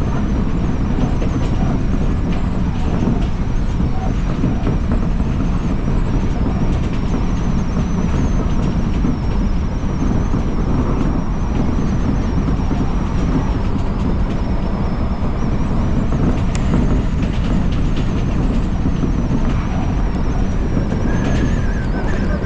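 Odakyu Line electric commuter train running between stations, heard from on board: a steady low rumble of wheels on track, with a thin high whine wavering throughout and a brief higher tone near the end.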